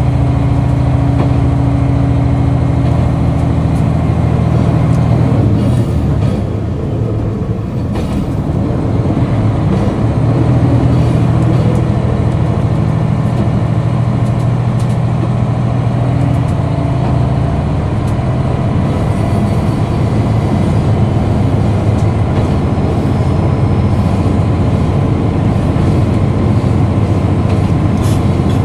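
KiHa 261 series diesel railcar's engine running, a steady low drone with the train's running noise on the rails. The engine note eases off about six seconds in and comes back strongly about ten seconds in.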